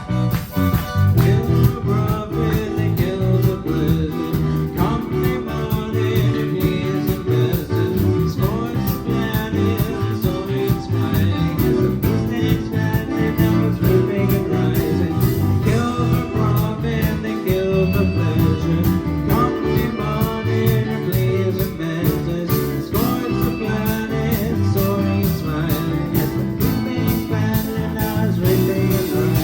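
A live band playing a song, loud and continuous.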